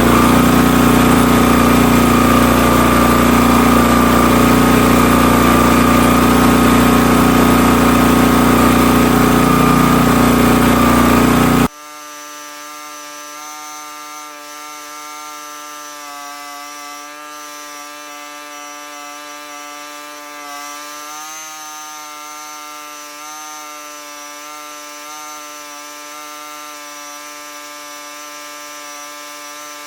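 The Hotsy pressure washer's 16 hp gasoline engine running loudly and steadily, cut off abruptly about twelve seconds in; a much quieter, steady, evenly pitched engine hum follows, its pitch wavering briefly partway through.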